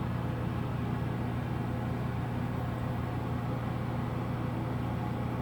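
1980s Broan bathroom exhaust fan, fitted with a Nutone blower wheel cut in half, running steadily: a low motor hum under an even rush of air.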